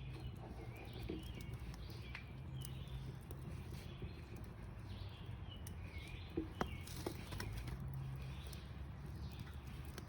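Wild birds chirping on and off, with a few sharp pops or clicks and a steady low hum underneath.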